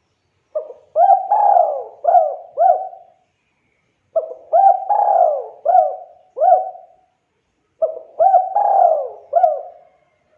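Spotted dove (tekukur) cooing in three repeated phrases. Each phrase is about five quick coos with a longer falling coo near its start, and the phrases come about every three and a half seconds.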